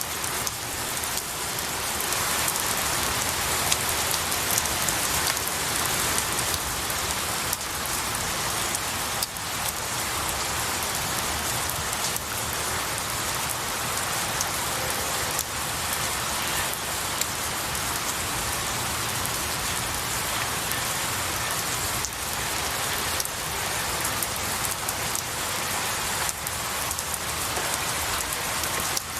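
Steady rain falling on pine needles and tree branches, a dense even patter with scattered sharper drop ticks.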